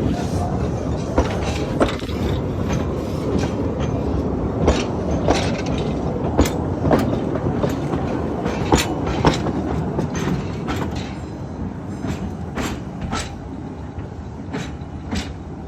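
Narrow-gauge train running along the track: a steady rumble of the wheels with sharp, irregular clicks over the rail joints, easing off a little near the end.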